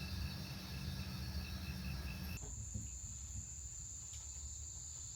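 Night insects calling: a high pulsed chirp repeating about three to four times a second, which gives way abruptly a little over two seconds in to a steady, higher-pitched continuous trill.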